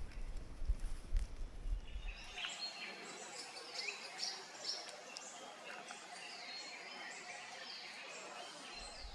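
A low rumble with a few thumps, then, from about two and a half seconds in, a dense chorus of forest birds: many overlapping high chirps and whistles.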